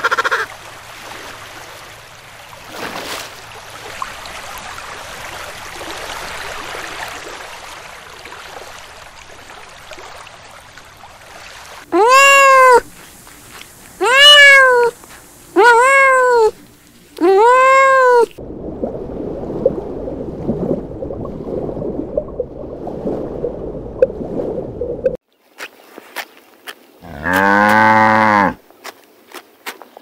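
A cat meowing four times in quick succession, each meow rising and falling in pitch, followed by a few seconds of low rough noise. Near the end a cow gives one long, low moo.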